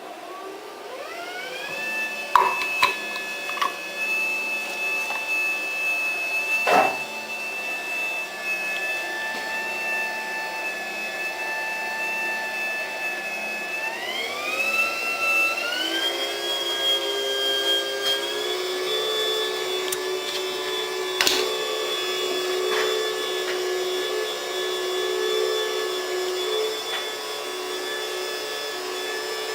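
Electric motor on a homemade milling machine spinning up and running with a steady whine. Its pitch steps up twice, about fourteen seconds in and again near eighteen seconds, and a few sharp clicks or knocks sound over it.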